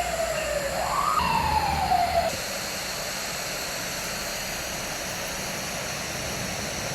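A single siren-like wailing tone glides slowly down, sweeps quickly up about a second in, then glides down again and stops after about two seconds. A steady hiss follows.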